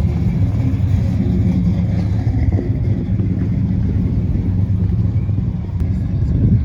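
Car engine running at low revs close by, a deep steady rumble.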